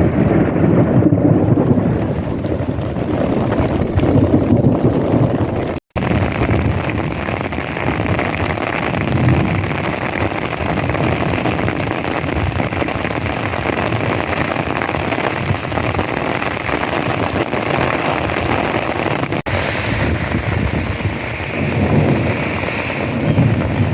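Heavy desert monsoon downpour, rain falling in sheets with a steady, dense roar, and heavier low rumbling near the start and the end.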